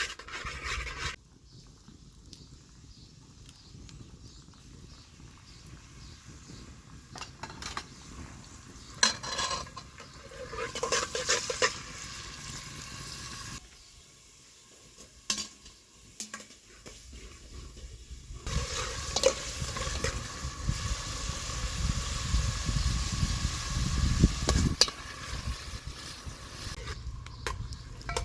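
Food frying and sizzling in a pan or pot, stirred with a utensil that scrapes and knocks against it now and then. The sizzle is faint at first and becomes a steady, louder hiss from about halfway.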